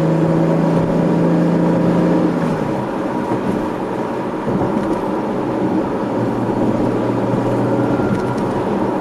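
A 2013 Camaro's 3.6-litre V6 and GM axle-back performance exhaust, heard from inside the cabin while driving. The engine note holds steady, drops about two and a half seconds in, then settles into a lower steady note, with no drone.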